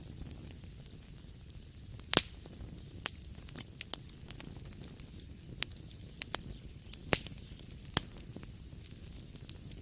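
Wood fire crackling in a fireplace: irregular sharp pops and snaps over a low steady hiss of flames, with two louder pops about two and seven seconds in.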